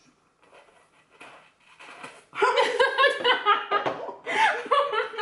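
Hearty laughter that breaks out about two and a half seconds in and carries on to the end, after a few faint soft sounds.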